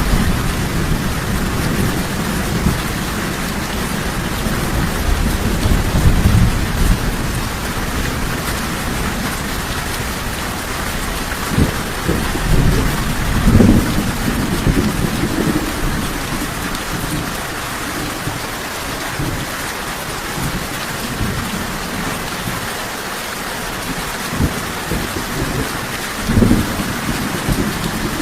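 Steady, heavy rain with low rolling rumbles of thunder, strongest over the first several seconds, and short low surges of thunder about halfway through and again near the end.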